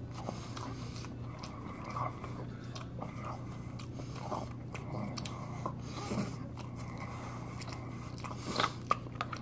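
Quiet chewing of a mouthful of poke bowl, in small irregular clicks. Near the end, a few louder clicks as a metal fork digs into the plastic bowl.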